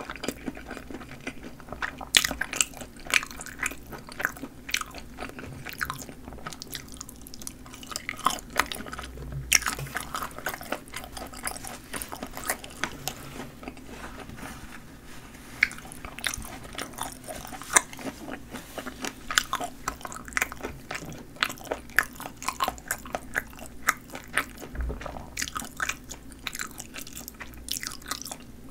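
Chewing and biting into sausages with snappy casings: an irregular run of crisp snaps and crunches, many small clicks a second.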